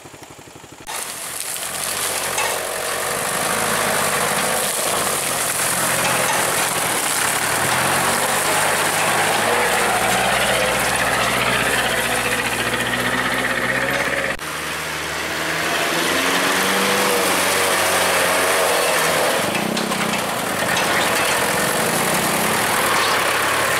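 Truck engine running under load, its pitch rising slowly over several seconds, over a steady hiss of road noise. The sound breaks off abruptly about two-thirds of the way through and then carries on.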